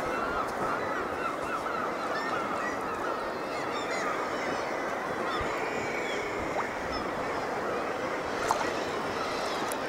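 Many birds calling at once, with short overlapping calls in a dense chorus, over a steady wash of sea water.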